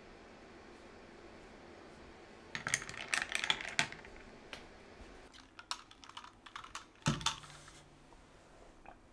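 A quick run of small, sharp clicks and taps, then scattered taps and a single heavier knock about seven seconds in.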